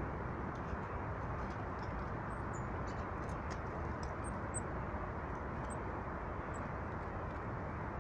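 Small birds giving short, high-pitched chirps and squeaks, scattered through, over a steady low background rumble.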